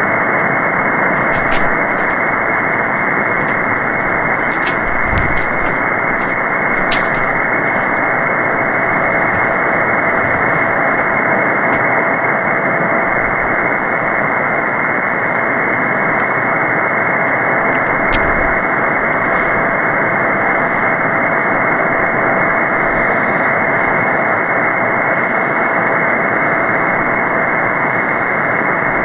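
Shortwave receiver hiss from an empty upper-sideband channel on the 20-metre amateur band: steady band noise with a faint steady whistle. A few sharp static clicks come in the first seven seconds and once more about two-thirds of the way through.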